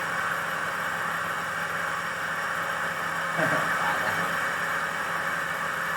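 Motor of a homemade wooden dowel machine running steadily, a constant hum under a dense whirring noise.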